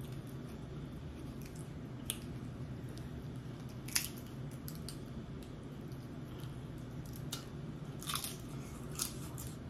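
Close-miked chewing and mouth sounds of someone eating chips with dip, broken by a few short, sharp crunches, the loudest about four seconds in.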